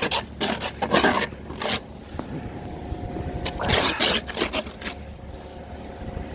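Snow crunching and scraping in several irregular strokes, over a steady low rumble.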